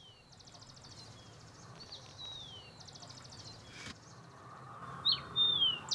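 Small birds calling: a few short whistles, each sliding down in pitch, mixed with high buzzy trills, over a faint outdoor hiss. The whistles get louder near the end.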